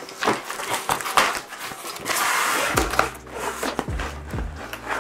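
Cardboard shipping box being opened and handled: scattered knocks and clicks, with a longer rasping noise about two seconds in.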